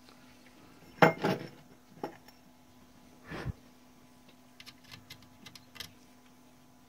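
Small metal parts of an antique Mercedes typewriter being handled and fitted by hand: a loud metallic clack about a second in, a single knock, a short scrape, then a run of light ticks and clicks.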